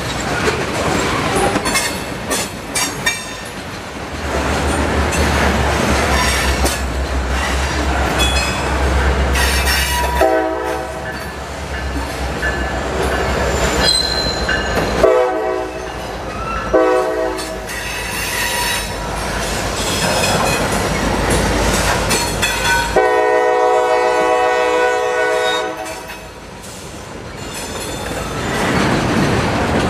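Freight train of tank cars and boxcars rolling past, wheels clicking over rail joints over a steady rumble. A locomotive horn sounds over it: a long blast about ten seconds in, two short ones around fifteen to eighteen seconds, and another long blast from about 23 to 26 seconds.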